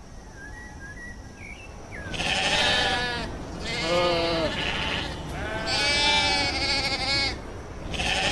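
Sheep bleating: four separate bleats, one every second or two, starting about two seconds in.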